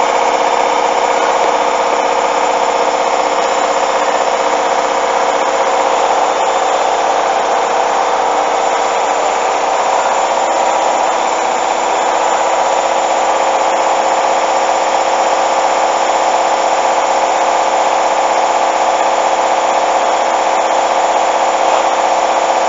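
Hoover washing machine on its spin cycle: the motor and drum run with a steady, loud whine that holds an even pitch throughout.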